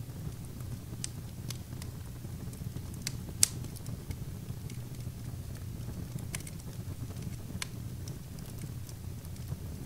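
Wood fire in a fireplace crackling, with scattered sharp pops at irregular intervals, the loudest about three and a half seconds in, over a steady low rumble.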